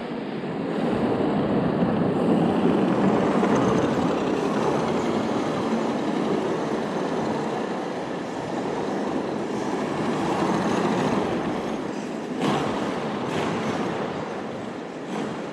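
RC drift car's hard drift tyres rolling and sliding on pavement: a steady, gritty rolling noise, with a brief sharper scrape about twelve seconds in.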